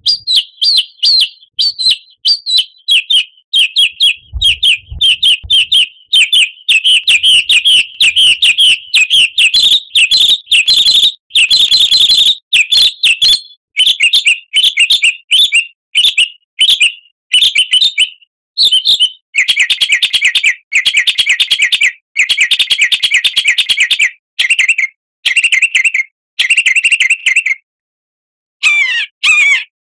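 Songbird song played as a lure for caged birds: loud, rapid high-pitched chirping and trilling in quick repeated phrases with short breaks, and a brief pause near the end.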